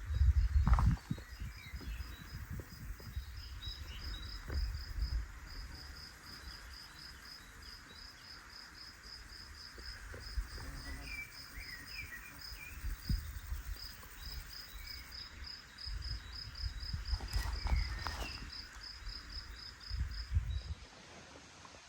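An insect, cricket-like, chirping in a steady high rhythm of about four chirps a second, with a few short bird chirps in the middle and near the end. Low rumbles and thumps come and go underneath, loudest about the first second.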